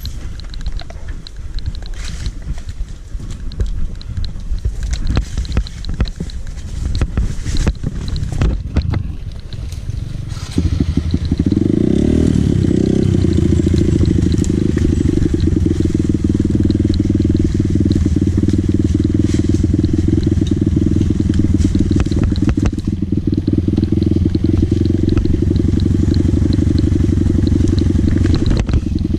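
Dirt bike engine. For the first ten seconds or so there are irregular knocks and rattling. About ten seconds in, a loud, steady engine note starts abruptly, rises briefly, then holds steady to the end.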